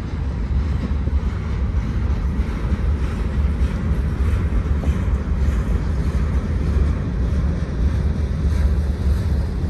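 Manifest freight train's cars rolling past on the rails: a steady, loud low rumble, with wind buffeting the microphone.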